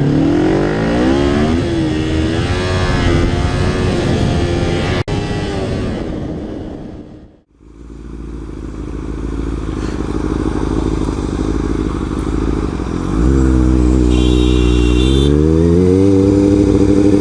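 Motorcycle engine accelerating, its pitch rising and falling through the gears, then dropping away abruptly about seven seconds in. Another motorcycle engine then runs steadily, gets louder, and rises in pitch as it accelerates near the end.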